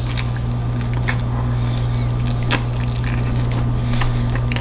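Close-up eating sounds of a soft salmon taco being bitten and chewed: scattered mouth clicks and smacks, a few in each second, over a steady low hum.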